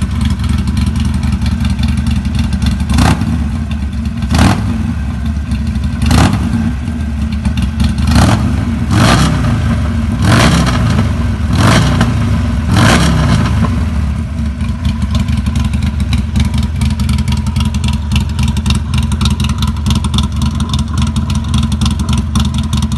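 Harley-Davidson Sportster Forty-Eight's air-cooled V-twin running through a Two Brothers Gen-II 2-into-1 exhaust: idling, then about eight quick throttle blips from about three seconds in, each rev rising and falling back, before settling to a steady idle again for the second half.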